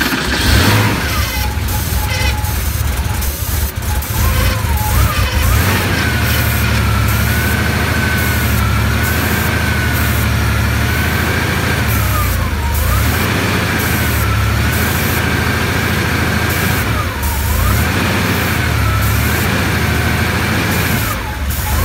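1983 Porsche 911SC's air-cooled flat-six running on starting fluid sprayed into the intake, because it is not yet getting fuel from its own system; it runs smooth. Its speed sags and recovers three times as the spraying pauses.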